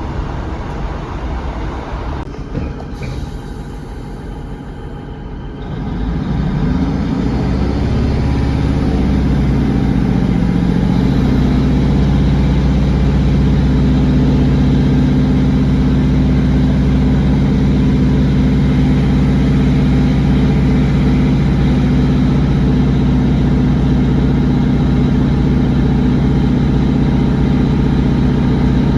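Underfloor diesel engines of a British Rail Class 150/1 diesel multiple unit, heard from inside the carriage. About six seconds in they rise to a loud, steady drone as the train accelerates away under power, with the pitch climbing a little before it levels off.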